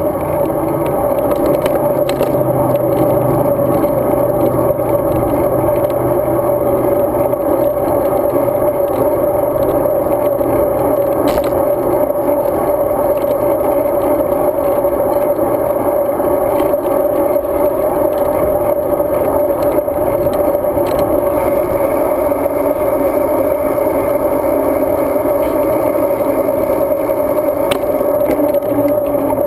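Road bicycle riding at a steady pace, picked up by a camera mounted on the bike: continuous tyre and wind noise with a steady mid-pitched hum, and a few faint ticks.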